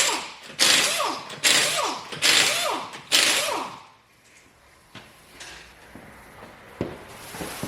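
A power tool run in about five short bursts in quick succession, each spinning up and down, followed by a few quieter knocks.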